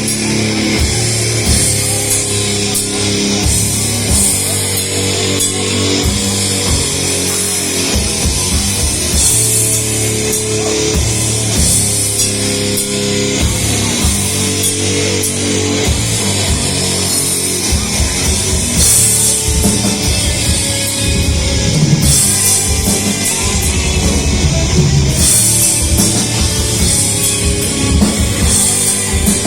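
Heavy metal band playing live: distorted electric guitars over a drum kit, with stretches of rapid, dense kick-drum hits.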